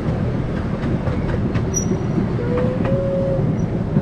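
Small park train running along its track, heard from on board: a steady rumble with scattered clicks of the wheels over the rails, and a short whine about two and a half seconds in.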